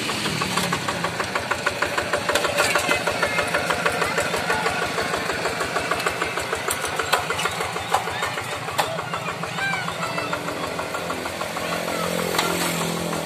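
Hand tractor's single-cylinder diesel engine chugging steadily under load as it works a dry rice field, with a rapid, even pulse. Its note drops near the end.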